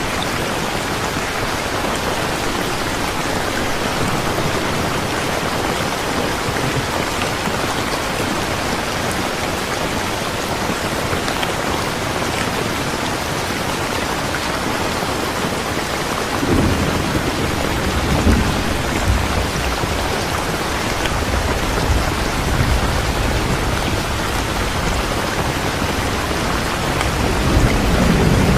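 Steady, dense rainfall. About halfway through, low rolling thunder comes in and swells again near the end.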